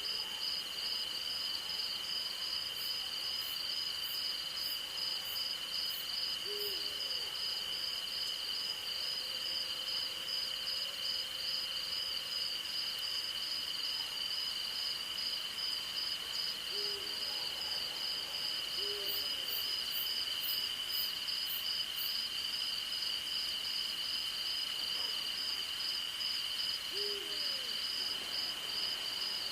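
Night forest insect chorus: one steady high trill and a second, higher pulsing trill run without a break, while an owl gives short, soft hoots every few seconds.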